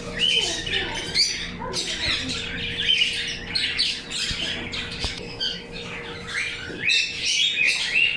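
Many caged birds chirping and squawking at once, a constant dense chatter of short high calls.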